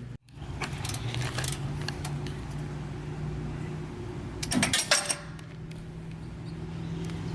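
Metal parts and hand tools clinking and rattling as they are handled, with a denser run of clinks about four and a half seconds in, over a steady low hum.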